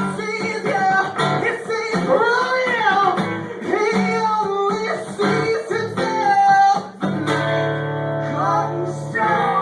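A song: a voice singing a melody over strummed acoustic guitar, with a chord held for a couple of seconds near the end.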